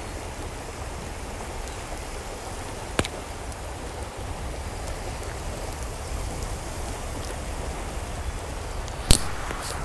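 Steady rushing water noise, with a sharp click about three seconds in and two louder clicks near the end.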